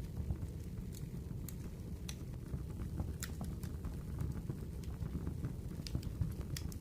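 Crackling wood fire: irregular sharp pops and snaps over a steady low rumble of burning logs.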